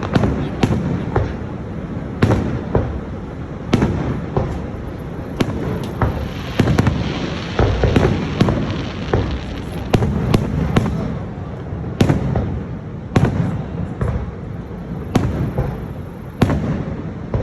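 Fireworks display: sharp bangs and booms go off at irregular intervals, one to three a second, over a steady low rumble. A dense crackling stretch comes around six to eight seconds in.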